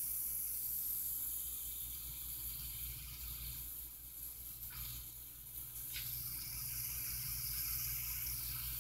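Diced onion and garlic sizzling softly in olive oil in a frying pan, a steady quiet hiss, with two faint ticks around the middle.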